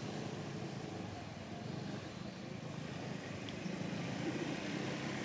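A motor engine running steadily, a low hum with a steady pitch.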